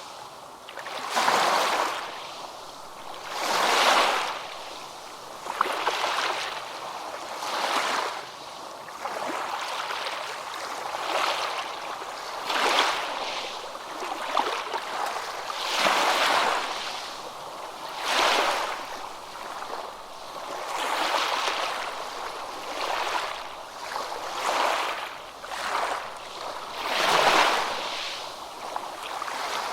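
Surf washing in: a rushing sound of water that swells and fades every two to three seconds.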